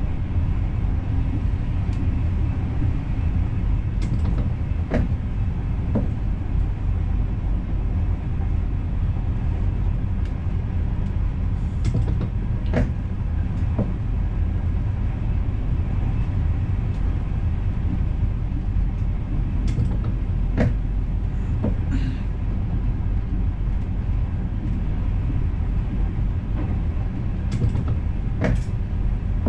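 Intercity passenger train running on the rails, heard inside the driver's cab: a steady low rumble with occasional sharp clicks and knocks.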